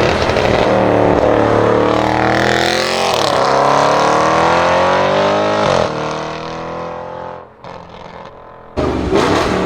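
Audi RS6 Avant C7's twin-turbo V8 through a Milltek exhaust accelerating hard: the engine note climbs, dips at a gear change about three seconds in, climbs again, then drops and fades away after about six seconds. A sudden loud burst of engine sound comes in near the end.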